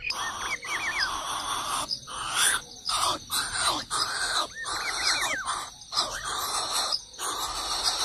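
Bird chirping: short runs of quick hooked chirps, three or four in a row, repeated a few times over a loud steady hiss that drops out briefly several times.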